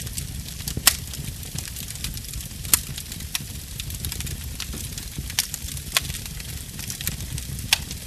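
Wood fire burning, with a steady low rumble and faint crackle broken by several sharp pops: about a second in, near three seconds, around six seconds and near the end.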